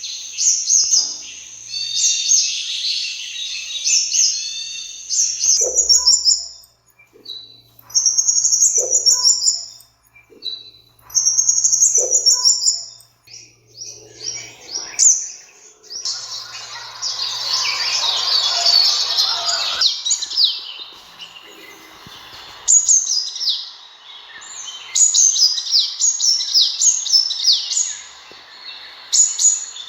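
Sunbird calling: repeated high, rapid chirping phrases separated by short pauses, with a denser, noisier stretch about halfway through.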